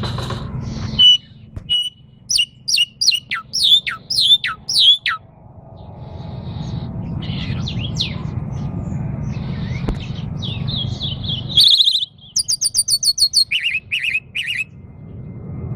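Caged songbirds singing: a series of clear whistled notes, each sliding downward, about two a second, then later a quick rapid run of high chirps. A steady low rumble of background noise sits underneath between the phrases.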